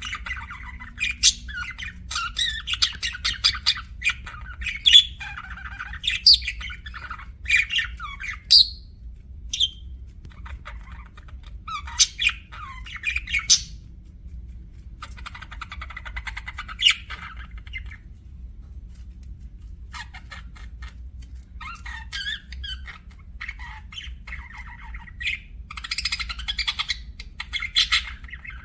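Budgerigars chirping and chattering in rapid bursts of sharp, high calls, with short pauses between bursts, over a steady low hum.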